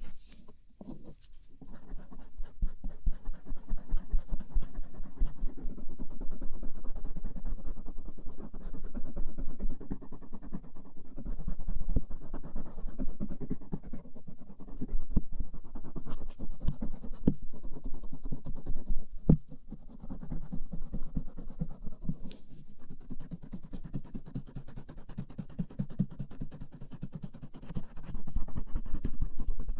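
Cotton swab rubbing and scratching over the folds of an outer ear, close to the microphone, in a continuous run of quick strokes that swell and fade. There is one sharp click a little past the middle.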